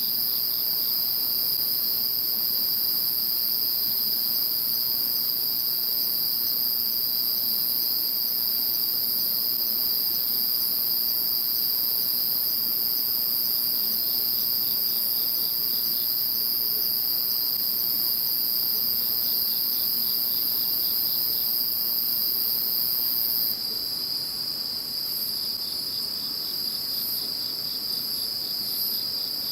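A chorus of singing insects: several steady, high-pitched trills overlapping without a break. About 23 seconds in the highest, shrillest trill stops and separate rapid chirps take its place, and the overall level drops slightly.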